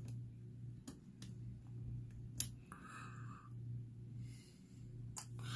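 Faint clicks and scrapes of a small screwdriver backing out the screws that hold a laptop screen panel, with one sharper click about two and a half seconds in.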